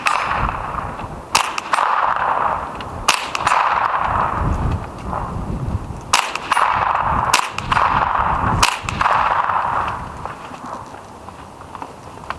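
Suppressed .22 rimfire rifle shots, about eight, mostly in quick pairs, each answered by the ringing clang of a hit steel target. The rifle is most likely an integrally suppressed Ruger 10/22, so the shots are muted and the ringing steel is as loud as the shots.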